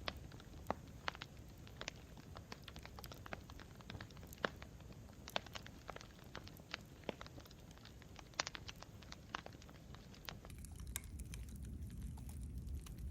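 Wood campfire crackling: irregular sharp pops and snaps over a low rumble. About ten seconds in, the pops thin out and the low rumble grows louder.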